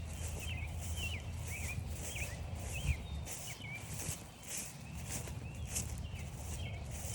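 Footsteps crunching through frost-stiffened grass, about two steps a second, while a songbird nearby gives a quick run of short swooping chirps. A steady low rumble runs underneath.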